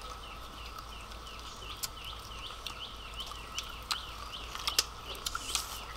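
Crunching and chewing of crispy battered fried chicken, with scattered sharp crunches, the loudest about five seconds in. Behind it, a steady series of short high chirps repeats a little over twice a second.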